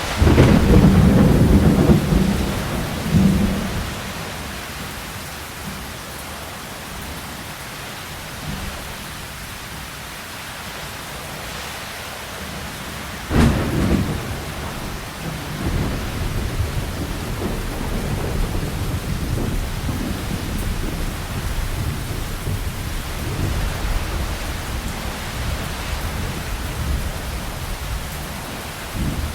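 Steady rain falling, with a low rumble of thunder in the first few seconds and a sudden thunderclap about halfway through, followed by low rolling rumbles.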